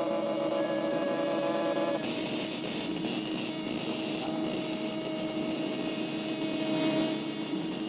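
A steady mechanical humming and whirring, like a machine sound effect in an old cartoon soundtrack. For about the first two seconds it lies under held orchestral tones, then continues as a dense, even noise with a faint high tone.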